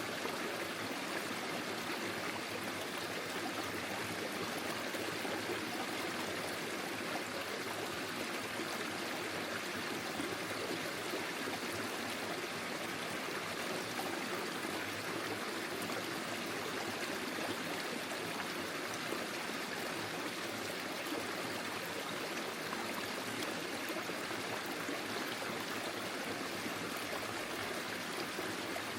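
Small forest stream flowing over stones, a steady babble and trickle of water.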